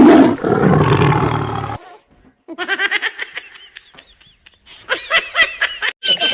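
Recorded tiger roar played as a prank sound effect: a loud, rough growl for about two seconds that cuts off abruptly. It is followed by a run of short, rapid, high-pitched sounds.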